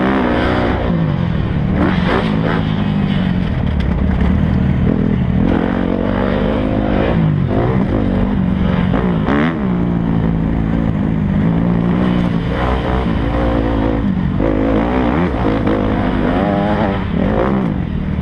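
Four-stroke motocross bike engine revving up and down over and over, its pitch rising and dropping every second or two as the throttle opens and closes.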